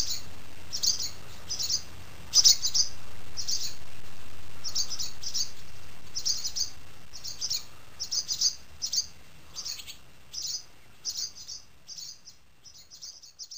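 Small birds chirping, short high calls one or two a second, the whole sound gradually fading out.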